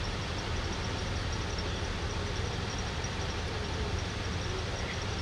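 Steady low rumble of idling vehicle engines with a constant hiss of outdoor background.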